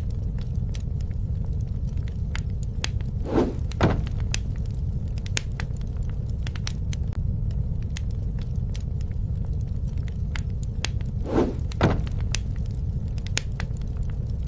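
Wood bonfire burning with a steady low rumble and frequent sharp crackles and pops. Twice, a few seconds in and again near the end, comes a louder pair of pops about half a second apart.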